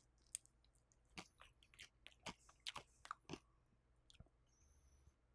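Faint close-up chewing of crisp air-fried veggie gyoza: a string of short, sharp crunches that come thickest in the middle, then thin out.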